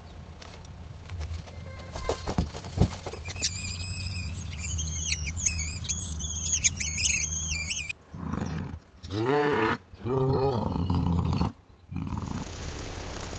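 A cat yowling loudly in several drawn-out, wavering cries, coming after a low steady rumble with high warbling chirps over it.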